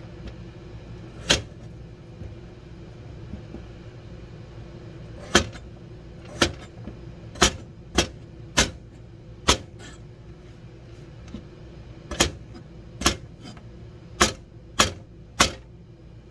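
Kitchen knife chopping potato against a cutting board: about a dozen sharp knocks at an uneven pace, several bunched together in the middle. A steady low hum runs underneath.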